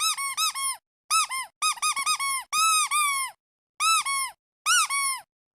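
Squeaky duck toy squeezed in quick runs of short squeaks, each rising then dropping in pitch, with a few longer squeaks among them and brief gaps between runs; the squeaking stops shortly before the end.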